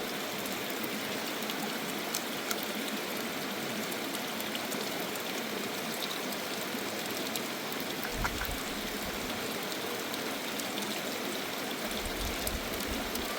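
Flowing water, a steady even rush, with a few faint clicks.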